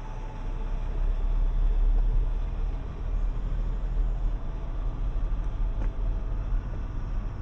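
Low motor-vehicle rumble that swells over the first two seconds, then holds steady.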